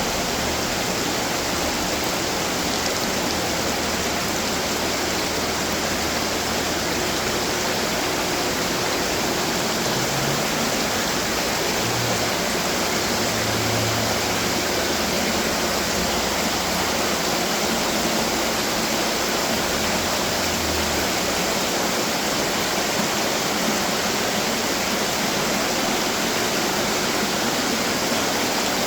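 Water running from decorative garden fountains, a steady splashing rush.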